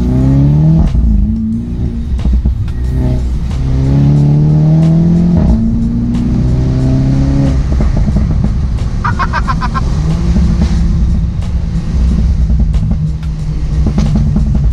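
Mini Cooper S's turbocharged 2-litre four-cylinder through a Remus cat-back exhaust, accelerating through the gears: the engine note climbs and drops back at each upshift, with a few sharp cracks between pulls, then holds steady for a few seconds near the end.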